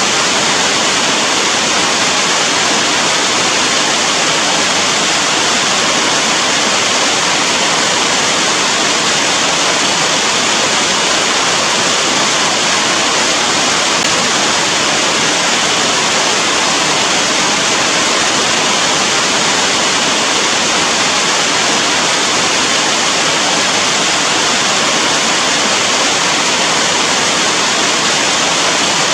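Steady rain: a dense, even hiss with no separate drops or other events standing out.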